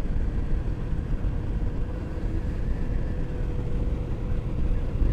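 Motorcycle running at a steady speed on the road, with a low rumble of road and wind noise on the rider's microphone and a faint steady engine tone.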